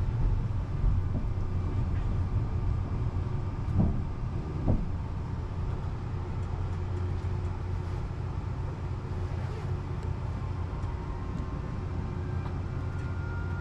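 Train running with a steady low rumble, with two brief knocks about four seconds in.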